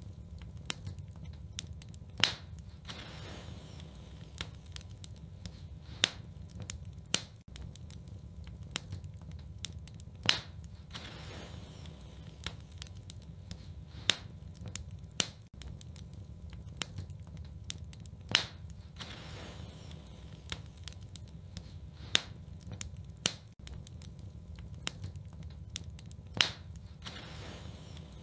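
Wood fire burning in a fireplace: a low steady rumble with frequent small crackles and a sharp pop about every four seconds, some pops followed by a brief hiss.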